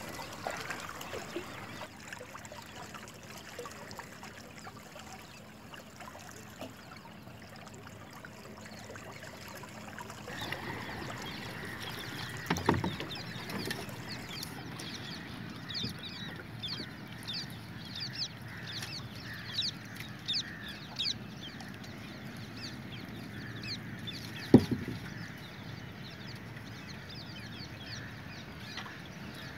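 Birds calling in quick, short chirps over a low open-air background, with two sharp knocks, one before the middle and a louder one toward the end.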